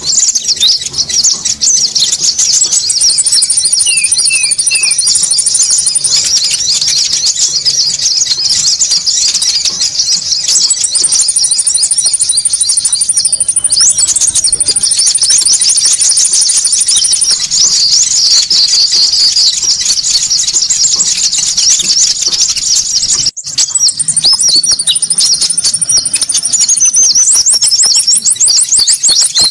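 Dense, continuous chattering calls of konin birds, a noisy bird-lure (pikat) recording, with long high rapid trills laid over them several times and a brief break about 23 seconds in.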